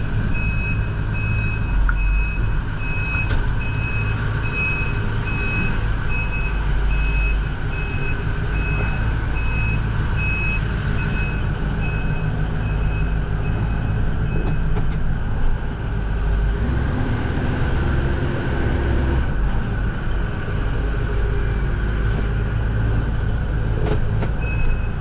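A truck engine running steadily while a reversing alarm beeps over it, a high beep repeating at an even pace.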